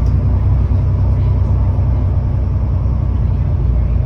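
Volvo B7TL bus's diesel engine running with a steady low rumble, its note coloured by a blown exhaust.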